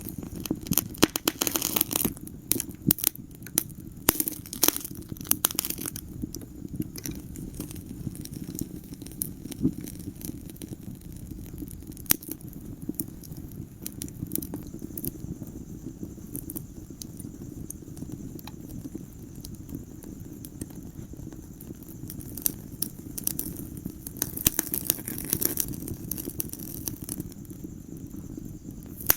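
Wood fire crackling in a fireplace: sharp pops and snaps, thick in the first few seconds and again near the end, over a steady low rush of the flames.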